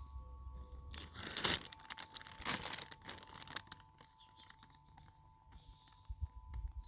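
Rustling and crinkling from refilling a bird feeder by hand, in two rough bursts, the louder about a second and a half in and another from about two and a half to three and a half seconds in, with a few low knocks near the end.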